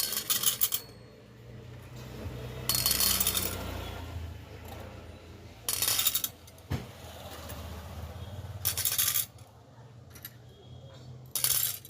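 A set of bangles clinking and jingling together in five short bursts, a few seconds apart, as the set is shaken or handled.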